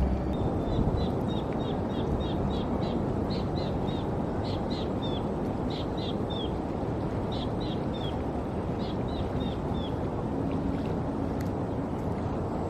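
A bird calling a long series of short, high chirps, some falling in pitch, that stop about three-quarters of the way through, over a steady low rumble.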